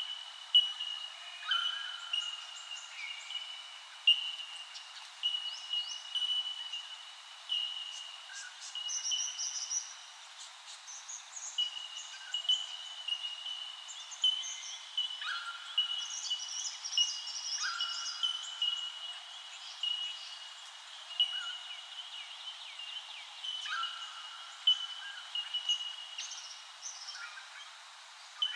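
Birds calling together. One keeps up a steady run of short, high, even-pitched notes, while others add quick chirps, higher trills and now and then a lower held whistle.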